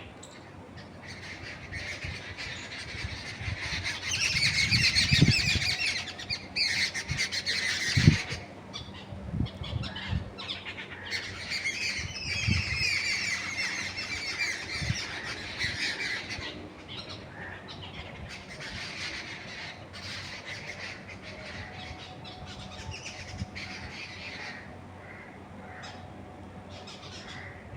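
Many birds calling at once, a dense chatter that swells in two long spells, around four seconds in and again around twelve, then thins to scattered calls. A few short low thumps sound under it, the sharpest about eight seconds in.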